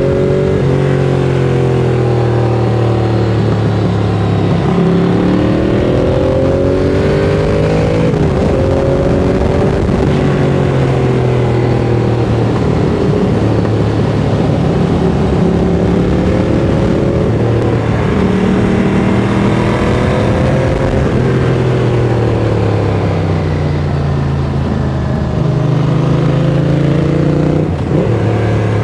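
Ducati Monster 695's air-cooled L-twin, breathing through a Mivv X-Cone aftermarket exhaust, heard onboard while riding. The engine pitch rises and falls again and again as it accelerates, changes gear and rolls off, over steady wind and road noise.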